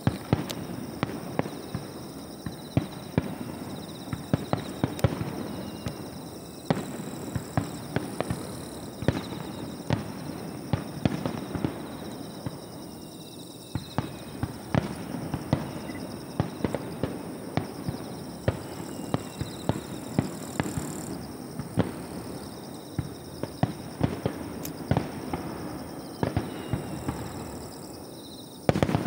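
Fireworks display: a rapid, continuous run of sharp bangs and crackles from exploding shells, with a few faint falling whistles.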